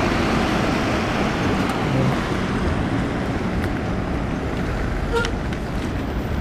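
Steady rushing wind and road noise on a chest-mounted microphone while riding an e-bike through wet city traffic. A short, sharp toot sounds about five seconds in.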